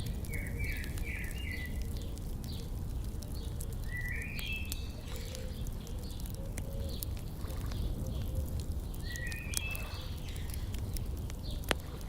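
Birds singing short phrases of quick stepped notes three times: near the start, about four seconds in, and about nine seconds in. Under them a wood fire crackles with scattered small pops and one sharper pop near the end, over a steady low rumble.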